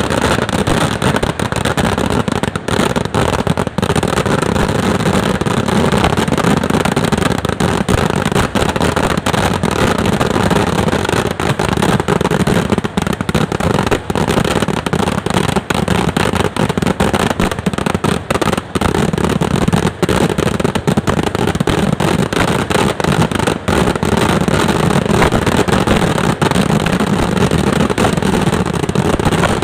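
A fireworks barrage at a Kerala pooram festival, with firecrackers going off in a dense, unbroken run of rapid bangs and crackles.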